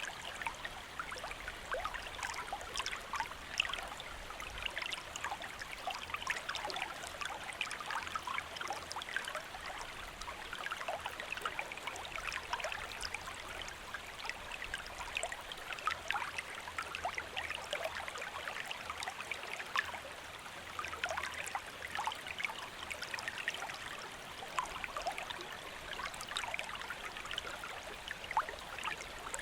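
A gentle stream flowing steadily over stones, a continuous rush thick with small trickles and splashes.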